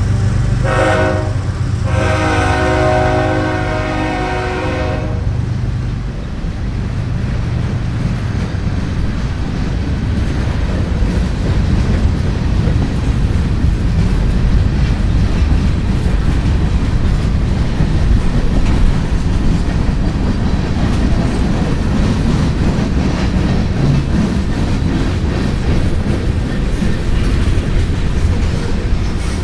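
Freight locomotive horn sounding a short blast and then a longer one of about three seconds, over the steady rumble and rattle of freight cars rolling past on the rails.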